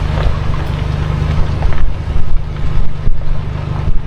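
A heavy van driving: a steady low engine and road rumble, with several short louder surges over the second half.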